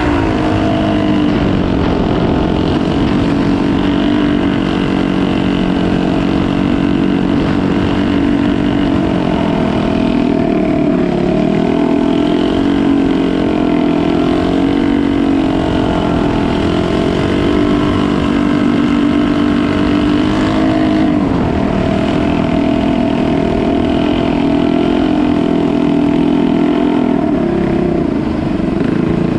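Boat engine running steadily, its pitch rising and falling slightly and unevenly.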